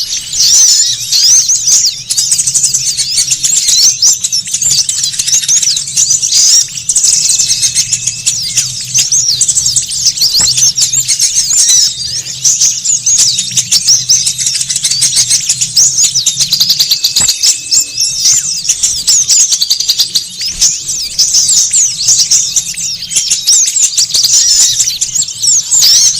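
Noisy chorus of many small birds chattering: dense, overlapping high-pitched chirps and twitters without a pause, a recording of the kind played as a lure to call small wild birds in.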